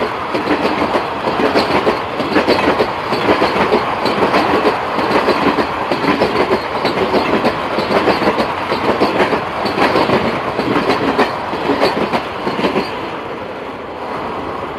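Indian Railways express passenger coaches passing at speed: continuous wheel clatter over the rail joints, fading as the last coach goes by about thirteen seconds in.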